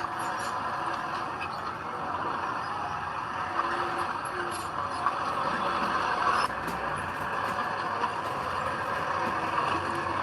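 Heavy diesel earthmoving machinery running steadily, with a few short clanks and a brief louder surge about six and a half seconds in.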